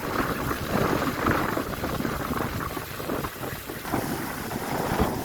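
Water fountain jets splashing into the pool, a loud uneven rush of water with wind buffeting the microphone.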